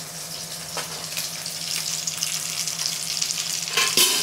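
Batter-coated chicken pieces frying in hot mustard oil in a pan, sizzling steadily. Near the end there is a brief loud clatter.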